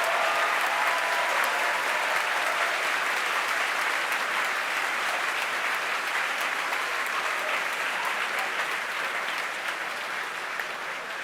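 A crowd applauding, slowly dying away toward the end, in reaction to the side boosters' entry burn starting.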